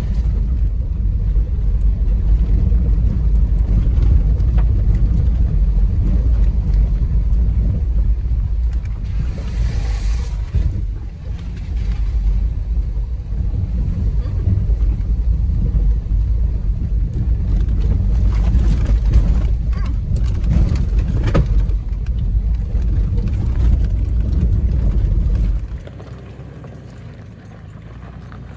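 An off-road vehicle driving on a rough trail: a steady low rumble with wind buffeting the microphone. It drops off suddenly near the end to a quieter rumble.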